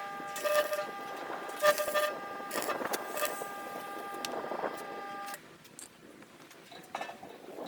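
An electric power tool running with a steady whine, with short bursts of noise as it works sheet metal, stopping abruptly about five seconds in; a few light clicks and knocks follow.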